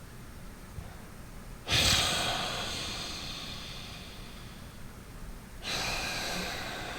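Loud, deliberate breathing through the nose, as in tai chi breathing practice: two long breaths, each starting suddenly and fading slowly, the first about two seconds in and the second near the end.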